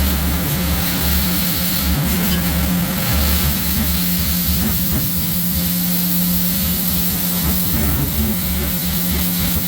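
Pressure washer running, its motor humming steadily under the even hiss of the water jet spraying dirt off a pickup bed.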